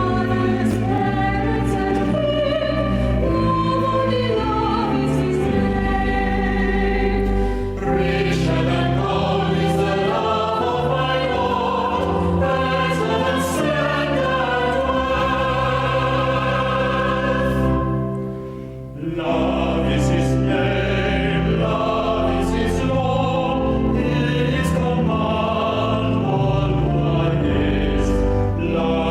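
Choir singing slow sacred choral music in long held notes and several parts, with a brief break about two thirds of the way through.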